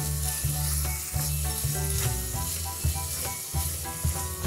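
Spiced vegetable masala sizzling in a miniature pan as it is stirred, with a few light scraping clicks, over background music with a steady bass beat.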